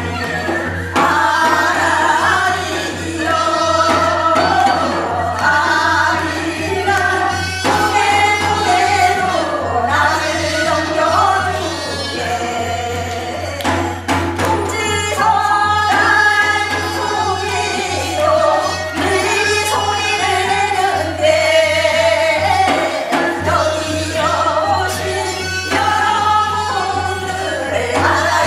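Korean Gyeonggi folk singing in the hwimori japga style: voices sing a fast, wordy patter song together, with percussion strokes in the accompaniment. A steady low hum runs underneath.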